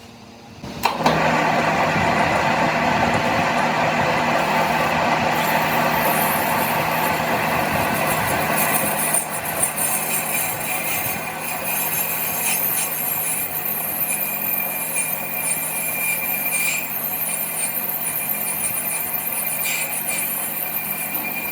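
A workshop machine starts about a second in and runs steadily, with a low hum under a harsh mechanical noise and a thin high tone.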